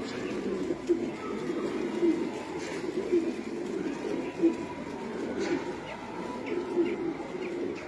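A flock of domestic pigeons cooing, many birds at once, so the low coos overlap into a continuous murmur. A few short, high chirps sound over it in the second half.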